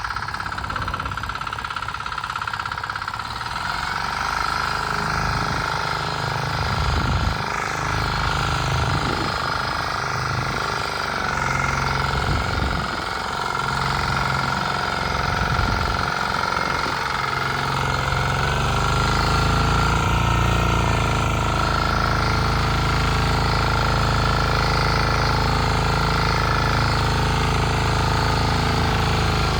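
Bolat walk-behind tiller engine running as a mini 'patpat' tractor under load. Its low note is uneven for the first two-thirds, then settles into a steadier, slightly louder drone.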